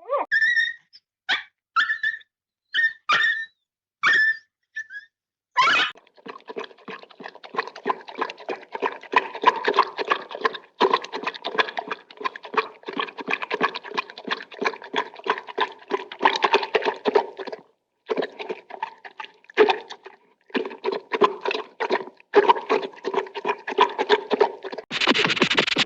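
Cartoon sound effects: a string of short, high, dog-like yips, then, about six seconds in, a long rapid chattering run of pulses that stops briefly a few times.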